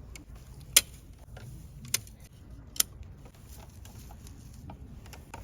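Three sharp knocks, roughly a second apart, with fainter small ticks in between.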